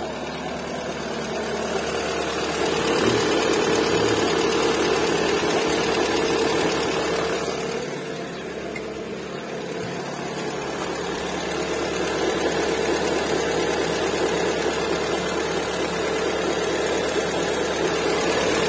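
Peugeot 407 petrol engine idling steadily, its level swelling and dipping. The engine had a faulty ignition coil, and the owner says that once it warms up it sucks in air where it shouldn't and runs lean.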